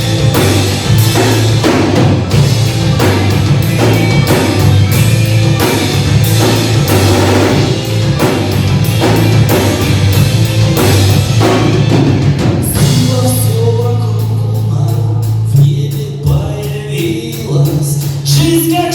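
Live rock band playing, with the drum kit hitting a steady beat over a held bass line. About two-thirds of the way in the drums drop out, leaving sustained bass notes and a melody line.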